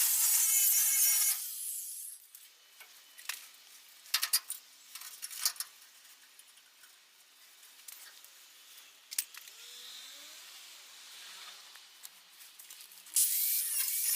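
Angle grinder working rusty steel car body panels: a loud, high-pitched grinding noise that stops about a second and a half in. A stretch of scattered clicks and knocks follows, then the grinding starts again near the end.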